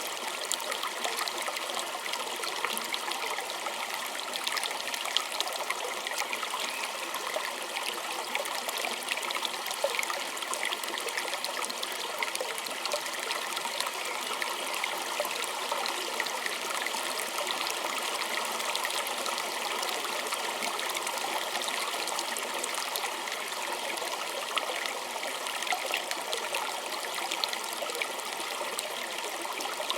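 A small stream of water trickling and babbling steadily over stones, a dense, even splashing with many fine droplet sounds.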